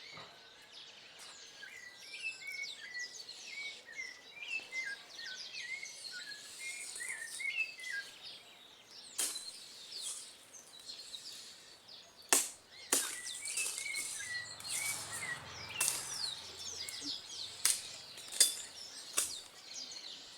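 Small birds chirping and calling repeatedly in short notes. About half a dozen sharp knocks or clicks come through the second half, and the loudest of them is near the middle.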